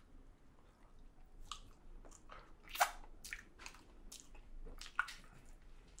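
Close-up mouth sounds of a person chewing a bite of egg tart: scattered short smacks and clicks, the loudest about three seconds in and another near five seconds.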